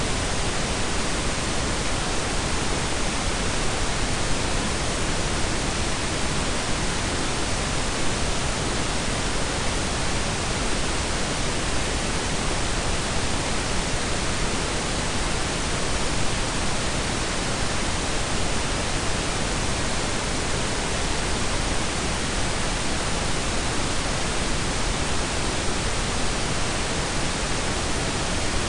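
Steady synthetic pink and brown noise blended together: an even, unbroken hiss with a deep rumbling base, with no changes or events.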